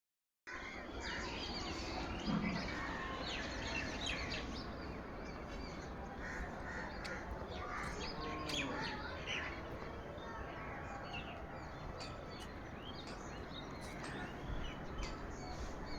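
Birds chirping and calling, many short calls scattered throughout, over a steady low background noise.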